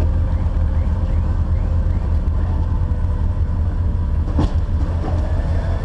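Jeep 4x4 driving off-road, its engine and drivetrain making a steady low rumble, with a single sharp knock about four seconds in.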